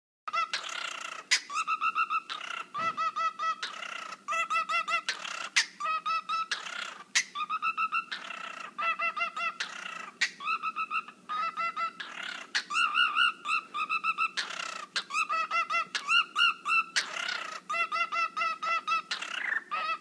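A bird giving rapid pulsing, wobbling calls that sound like dubstep. They come in bursts of about a second, each a fast run of pitched pulses, and alternate with short harsh, hissing screeches.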